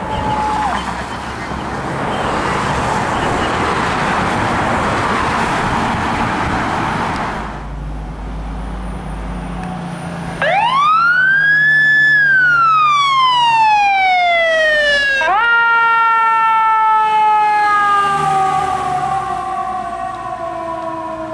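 Fire engine siren: a falling tone trails off at the start, then a loud rushing noise lasts about seven seconds. About ten seconds in the siren winds up in a rising and falling wail, then jumps up again and slowly falls away near the end.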